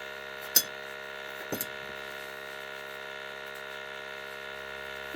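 Steady electrical hum, with one sharp click about half a second in and two light clicks a second later as the small sooty burner nozzle and tools are handled.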